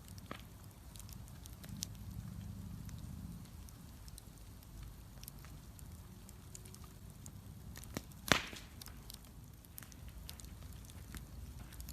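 Bonfire crackling, with scattered small pops over the low rush of the flames and one loud, sharp pop a little over two-thirds of the way through.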